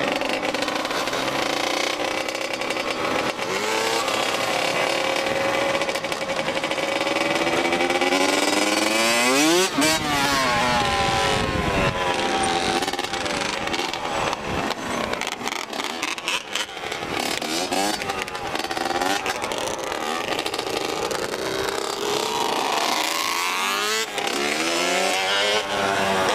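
Dirt bike engine running and revving under throttle. Its pitch climbs steeply about nine to ten seconds in and again in the last couple of seconds.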